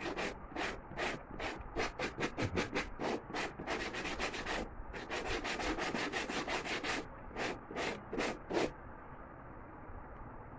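Sandpaper rubbed back and forth over the rubber inner bladder of a football around a tear, roughening the rubber so the rubber cement and patch will stick. Quick scratchy strokes, two to three a second, stopping near the end.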